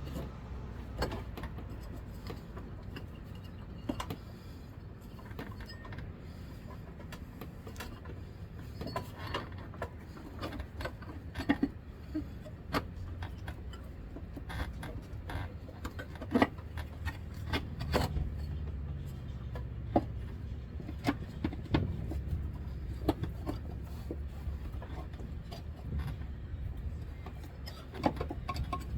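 Scattered clicks, taps and clinks of metal parts and tools being handled while hoses and clamps are fitted in an engine bay, over a low steady hum.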